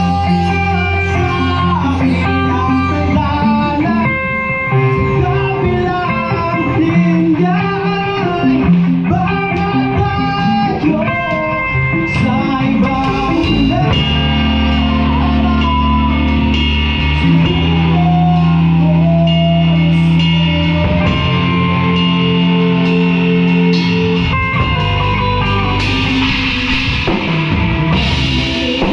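Live band playing a rock song: guitar, bass and drums, with singing.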